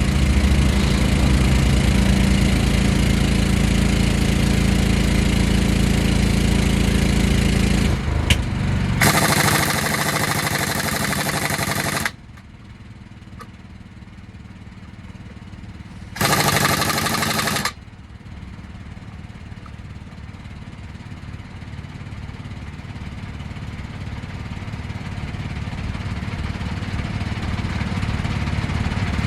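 Truck engine idling, then two loud bursts of hiss, the first about three seconds long and the second shorter, in the middle. After them the engine sound is quieter and slowly grows louder.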